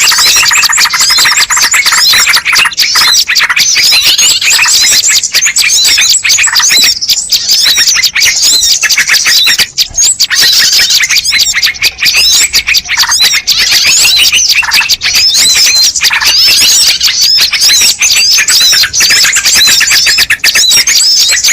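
Dense, unbroken chorus of many small birds chirping and twittering over one another, with quick high notes sliding up and down. It is a bird-lure recording of the kind played to draw wild birds in.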